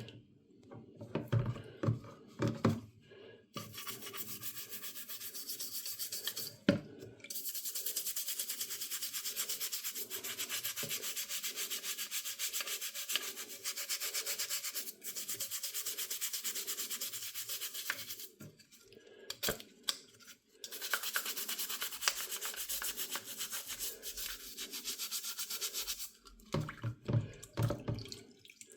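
Hand sanding: quick, even back-and-forth abrasive strokes in two long runs, with a pause about two-thirds of the way through. A few knocks and handling clatters come at the start, in the pause and near the end.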